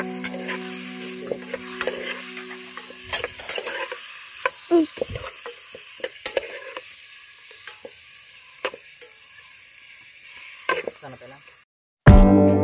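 Frog adobo sizzling in a metal pot over a wood fire, with a utensil clicking and scraping against the pot as it is stirred.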